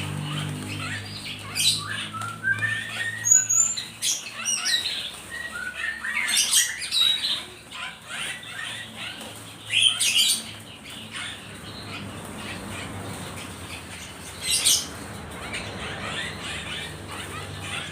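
Small birds chirping and giving short, sharp squawks, with bursts of fluttering wingbeats, busiest in the first half and thinning out later.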